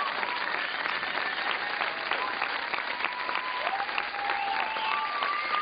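Audience applauding steadily, with a few long, high whistles held over the clapping.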